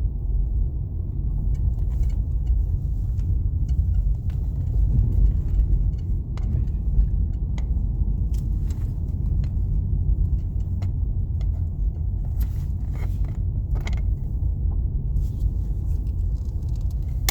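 Steady low rumble of a car being driven, heard from inside the cabin, with scattered faint clicks and ticks.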